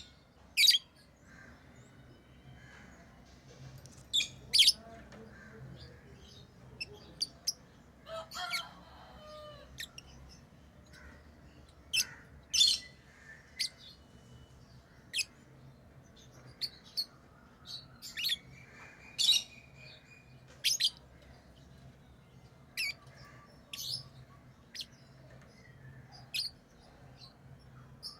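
Pet lovebirds chirping: short, sharp, high chirps coming irregularly, roughly one every second or two, with a couple of longer calls around a third and two thirds of the way in, over a faint steady low hum.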